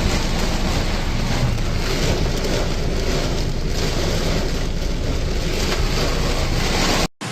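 Loud, steady rushing noise of a severe storm, with wind buffeting the microphone in a heavy low rumble and rising and falling in gusts. It cuts off suddenly near the end.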